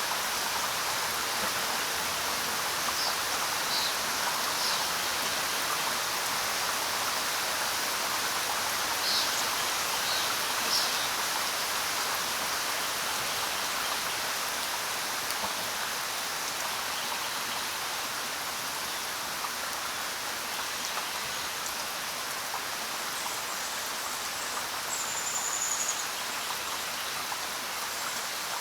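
Steady rain falling on the ground, an even hiss of many drops, with a few faint short high chirps now and then.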